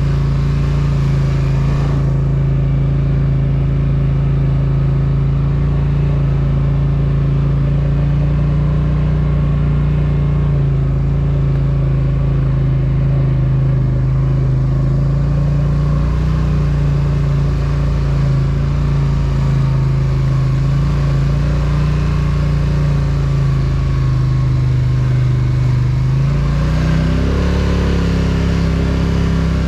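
Polaris Sportsman 1000 ATV's twin-cylinder engine running at a steady pace, then revving up briefly near the end and easing back.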